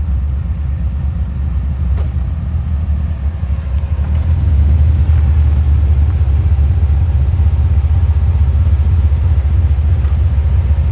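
Pickup truck's engine running at low speed as the truck crawls over a trail obstacle, a steady low rumble that grows a little louder about four seconds in.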